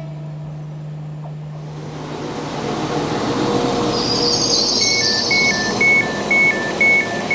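Diesel multiple-unit train pulling into the platform, its running and braking noise building up. From about five seconds in, the door warning sounds as a two-note high-low beep repeating about twice a second while the doors are released.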